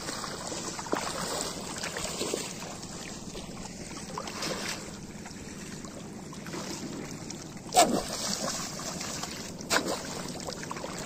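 Water trickling and lapping around a small fishing boat on the water, with two sharp splashes about two seconds apart in the second half.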